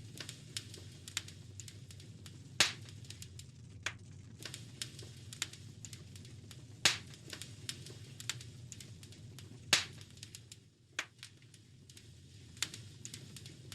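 Wood fire in a fireplace crackling, with irregular small pops and three louder pops spread through, over a steady low rumble of the flames.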